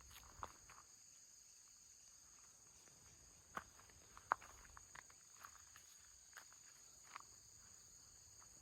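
Faint, steady high-pitched trilling of crickets, with scattered small clicks and ticks, two louder ones about three and a half and four and a half seconds in.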